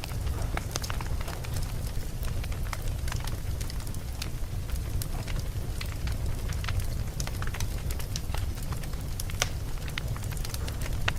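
Wood fire burning, with a steady low rumble of flames and many irregular sharp crackles and pops from the burning logs.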